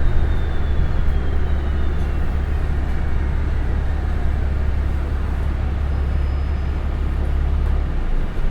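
Interior of a city transit bus underway: a steady deep rumble from the engine and drivetrain, with a faint whine falling in pitch over the first few seconds. The deep rumble drops away near the end.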